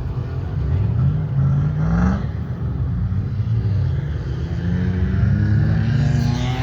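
Car engine revving hard in the sand, its pitch climbing about a second in and again, more slowly, through the second half.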